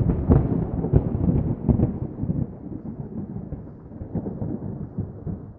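A thunderclap bursting in suddenly, then crackling and rumbling as it fades away over several seconds.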